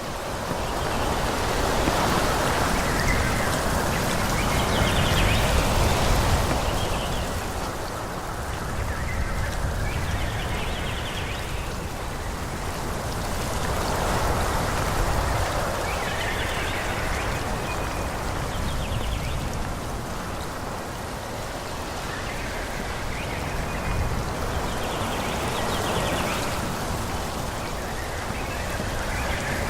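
Wind blowing through forest trees, swelling and easing every several seconds, with short higher calls now and then.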